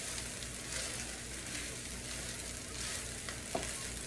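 Chicken fried rice sizzling in an electric skillet while a wooden spatula stirs and scrapes through it. A steady hiss runs throughout, broken by short scraping strokes.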